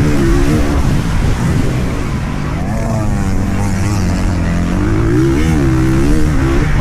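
Motocross dirt bike engine revving, its pitch rising and falling repeatedly as the throttle is opened and closed.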